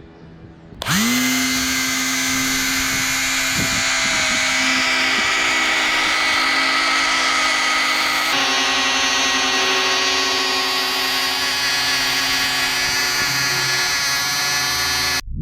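Small electric motors with fans, the model's homemade can 'jet engines', spinning up quickly about a second in and then running with a steady high whine; the sound changes abruptly partway through and cuts off just before the end.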